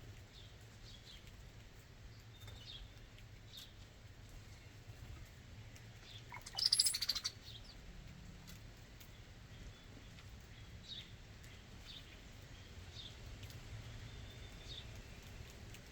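Backyard songbirds giving short, high chirps scattered throughout, with one louder, rapidly pulsed, rasping call lasting under a second about six and a half seconds in.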